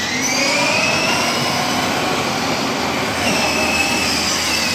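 A toy car's motor running: a steady rushing noise with a whine that rises in pitch over the first couple of seconds and then holds.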